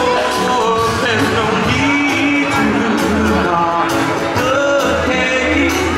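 Live band playing an upbeat song, a singer holding long wordless notes over a steady bass line, in a large hall.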